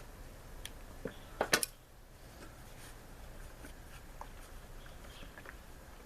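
Scattered light clicks and taps of hand tools and clamps while the fuel line is worked off a push mower's gas tank. The loudest is a quick run of three or four sharp clicks about one and a half seconds in.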